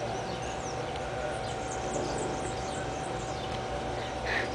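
Outdoor ambience of small birds chirping, many short falling notes overlapping, over a steady low hum.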